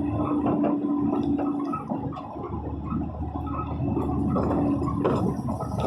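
Heavy rain falling on a moving vehicle, heard with steady road and engine noise.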